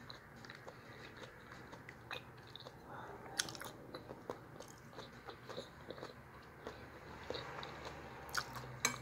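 Quiet chewing and eating sounds, with scattered small clicks of a metal spoon against a plate.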